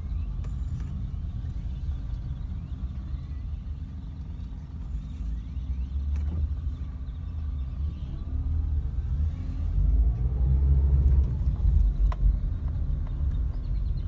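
A low steady rumble that swells from about ten seconds in, with faint high chirping above it and one sharp click near the end.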